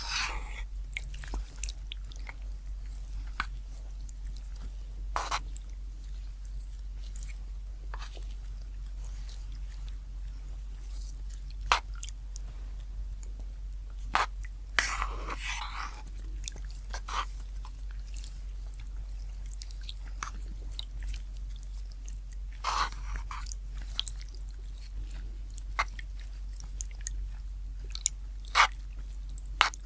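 Close-miked eating sounds: chewing and biting, with scattered sharp clicks and short crunchy bursts, over a steady low hum.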